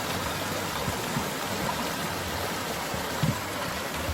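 Mountain stream running full after rain, a steady rushing of water over rocks, with a soft thump a little after three seconds.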